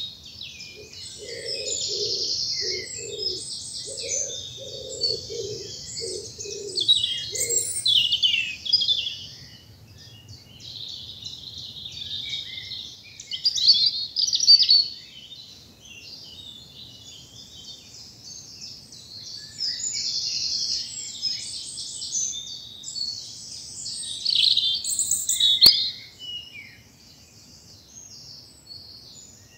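A spring woodland dawn chorus: several songbirds singing at once in overlapping high phrases. For the first several seconds a bird gives a run of low, evenly repeated call notes beneath the songs.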